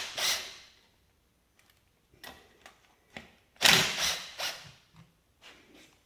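Metal hand tools clanking and clicking on a haybine's angle-drive gearbox as it is opened up for an oil change: scattered sharp clanks, with the loudest cluster about three and a half seconds in.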